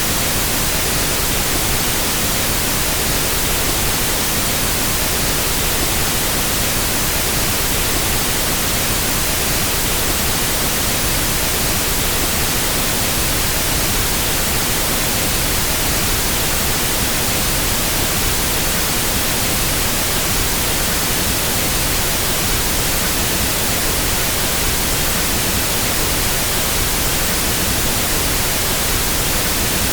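Pink noise test signal for equalizing sound equipment, a steady, even hiss that does not change in level.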